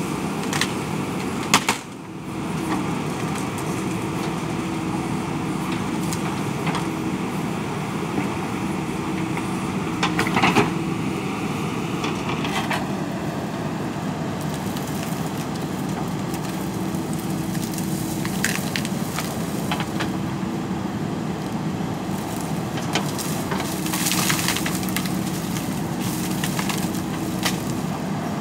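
JCB backhoe loader's diesel engine running steadily, with scattered sharp cracks and clatter from the machine's work. There is a louder knock just before two seconds in and another cluster of cracks around ten seconds.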